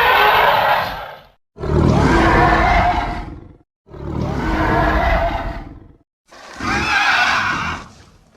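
Custom creature sound effect for a gorilla-giraffe hybrid monster: a series of four animal-like cries, each about two seconds long, swelling and fading with short silent gaps between them.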